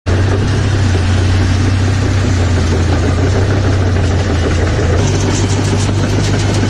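A vehicle engine running steadily with a strong low hum; the sound shifts slightly about five seconds in.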